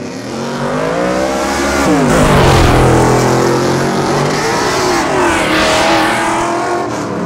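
A car engine revving hard. The pitch climbs over the first two seconds, drops sharply about two seconds in, then rises and falls again around five to six seconds in.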